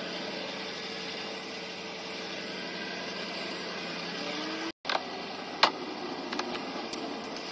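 A car engine running steadily at idle, cut by a brief dropout just under five seconds in, with a few sharp clicks after it, the loudest about five and a half seconds in.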